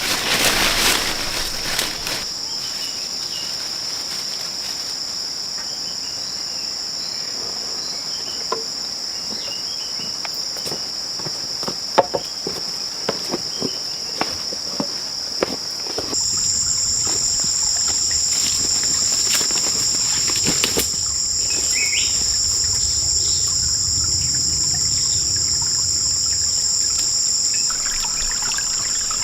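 Rainforest insects trilling steadily in two high-pitched tones, with scattered sharp clicks and knocks in the middle. About sixteen seconds in, the upper tone grows louder and a low rumble joins it.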